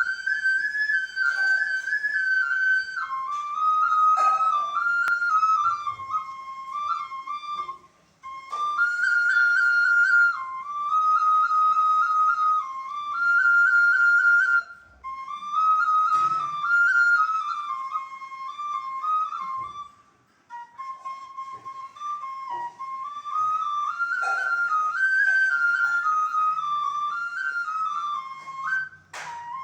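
Bansuri (Indian bamboo flute) playing a slow solo melody: a single line of held and stepped notes in a high register, in phrases broken by short pauses. A sharp click near the end.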